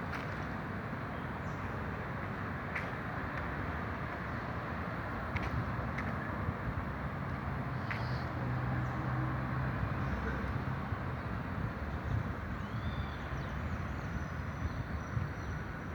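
Steady outdoor background noise with a low rumble like distant traffic. A few faint clicks sound through it, and there is a brief high chirp about three quarters of the way through.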